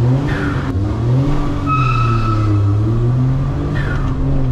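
K-car's four-cylinder engine being revved, its pitch rising and falling a few times, with a brief high squeal about two seconds in.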